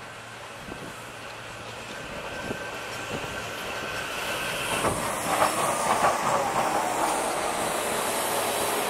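SEPTA electric commuter train approaching and growing steadily louder, with a steady whine. From about five seconds in it passes close by: louder rumbling rail noise with repeated wheel clacks over the rail joints.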